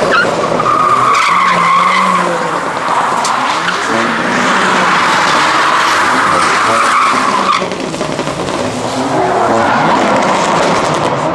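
A car drifting: its tyres squeal steadily for about seven seconds over a revving engine. The squeal stops abruptly, and the engine keeps running with a fainter squeal near the end.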